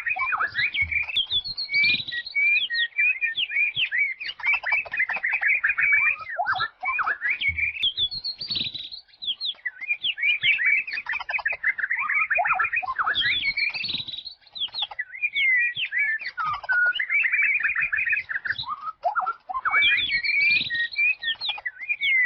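A wild songbird singing a long, fast, varied chattering song of chirps and trills, in phrases of a few seconds with brief pauses between them.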